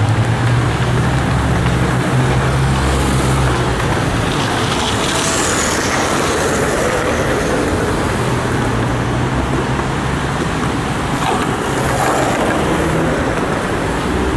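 Steady outdoor background noise with a continuous low rumble.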